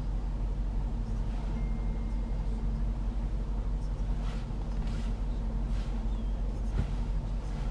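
Steady low rumble of a 5.0-litre supercharged V8 idling, heard from inside the cabin, with a few faint clicks.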